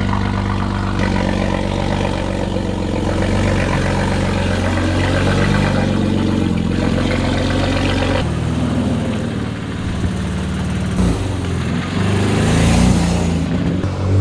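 BMW G80 M3 Competition's twin-turbo straight-six running through catless downpipes, a single mid-pipe and a valved exhaust. It idles with a steady, loud note, which changes about eight seconds in. Near the end the revs rise and fall.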